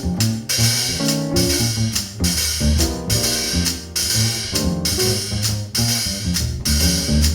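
Drum kit playing jazz with a pitched accompaniment: cymbals and drum hits over a moving bass line and chords.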